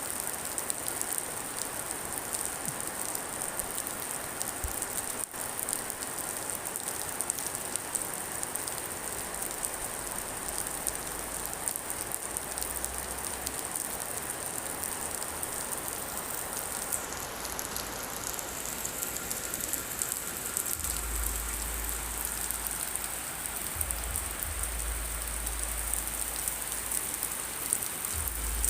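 Steady rainfall pattering on surfaces, a dense even hiss of many drops, with a low rumble coming in and out during the second half.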